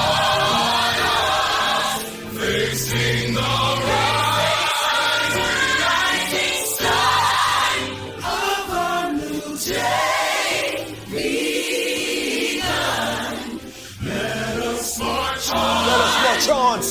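A choir singing a gospel song over held bass notes, with short pauses between phrases.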